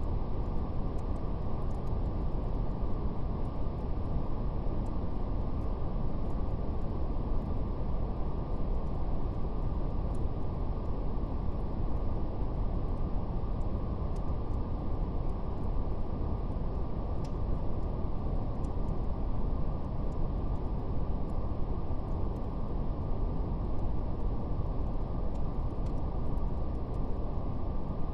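Steady brown noise, a deep even hiss heaviest in the bass, with a faint crackle of a fire scattered through it as sparse light ticks.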